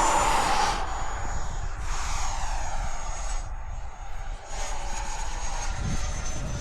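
Electric ducted-fan RC model jet flying overhead: a high fan whine that sinks slowly in pitch over a rushing air noise that swells and fades a few times.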